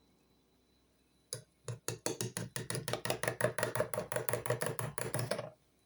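A spoon stirring cocoa into hot milk in a cup, clinking against the sides in a quick, even rhythm of about six clinks a second. It starts a little over a second in and stops shortly before the end.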